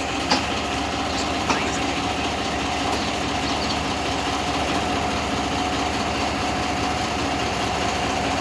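Miniature railway locomotive's engine running steadily, heard from the carriage behind it, with a steady whine over the engine's throb. Two sharp clicks come within the first two seconds.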